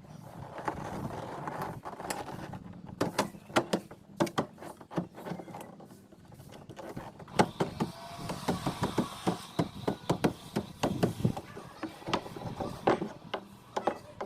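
Irregular knocks and taps, some sharp and loud, with stretches of scraping or rubbing between them: hand work on a fiberglass pillar.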